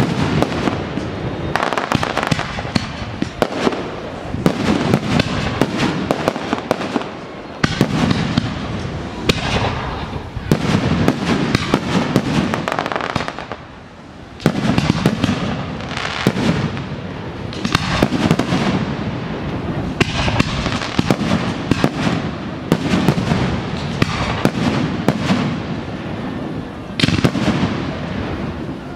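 Fireworks display: aerial shells bursting one after another with bangs and crackling, almost without pause, with a brief lull about halfway through.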